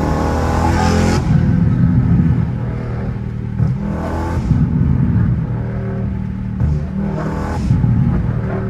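Straight-piped 392 HEMI V8 of a Dodge Charger Scat Pack under hard acceleration. Its note rises in pitch through the first second, then runs on loud with brief surges about four and seven seconds in.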